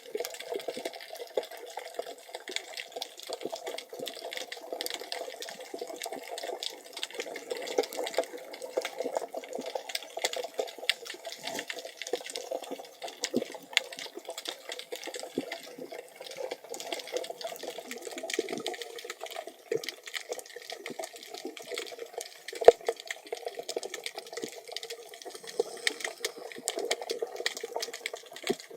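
Underwater ambience as picked up by a camera in a waterproof housing: a steady hollow hiss with many small crackling clicks, and one sharper click a little past the middle.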